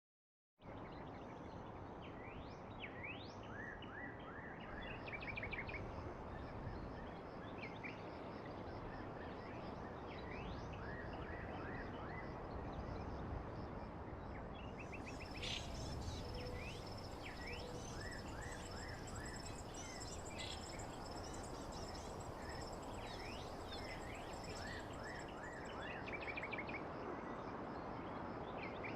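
Outdoor nature ambience that starts abruptly about half a second in: many small birds chirping and twittering over a steady rushing background, with a high insect-like buzz joining in around the middle and fading near the end.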